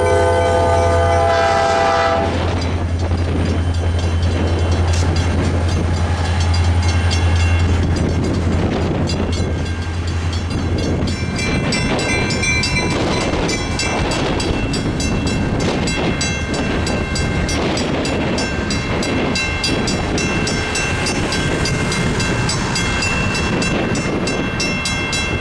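Train horn sounding a chord that cuts off about two seconds in, followed by the train passing close by: a steady low engine hum for roughly the first ten seconds, then continuous rumble and rail clatter.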